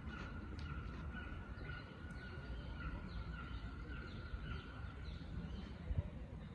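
Birds calling and chirping in short, repeated notes over a steady low rumble, with a thin continuous high tone underneath.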